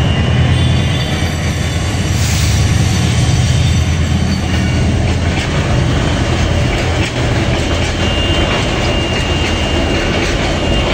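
Train passing: a loud, steady low rumble with wheels clattering over the rails, and a thin wheel squeal coming in during the second half.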